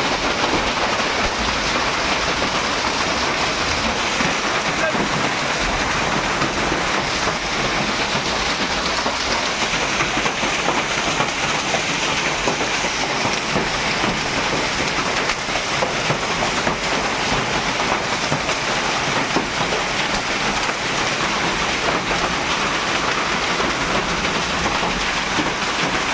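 Heavy rain and hail falling steadily during a hailstorm: a dense, even patter of countless small impacts.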